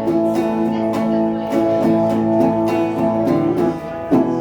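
Acoustic guitar strummed steadily, the chords ringing between strokes, as the instrumental part of a song.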